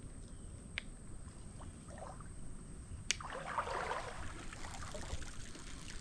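Creek water splashing for about a second, right after a sharp click a little past the middle, over a low steady rumble of moving water and wind.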